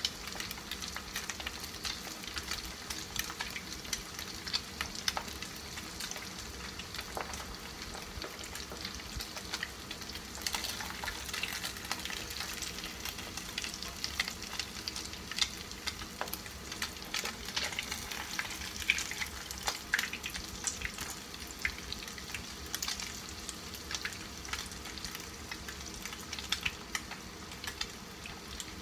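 Breaded horse mackerel fillets shallow-frying in hot oil in a frying pan: a steady sizzle with frequent sharp crackles and pops.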